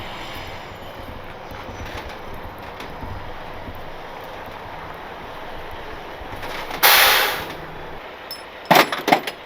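Tow truck engine idling with a steady low rumble. About seven seconds in comes a short, loud burst of hiss that fades over about half a second, followed near the end by a quick cluster of sharp, loud knocks.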